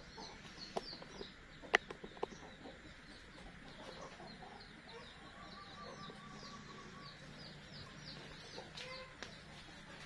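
Faint chirping of birds, short high falling chirps several a second, with a single sharp knock a little under two seconds in.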